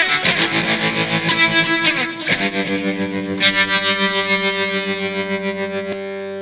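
Electric guitar played through a Fender Santa Ana Overdrive pedal, with overdriven tone. It plays quick picked notes for about two seconds, then strikes a chord that is left to ring and slowly fade.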